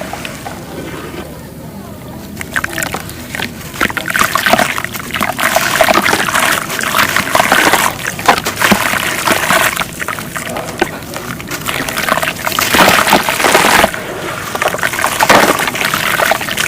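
Thick wet paste being squished and stirred in liquid, sloshing with many small crackly wet clicks; it picks up after a quieter start of about two seconds.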